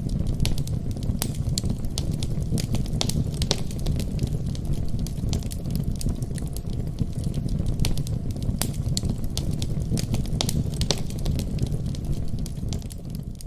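Wood fire crackling in a fireplace: frequent sharp pops and snaps over a steady low rumble, fading out near the end.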